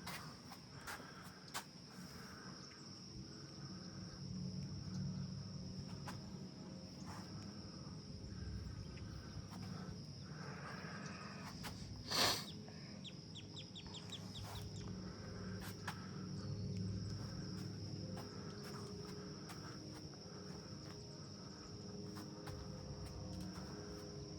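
Steady high-pitched insect chorus with birds calling over it, and one louder call about halfway through.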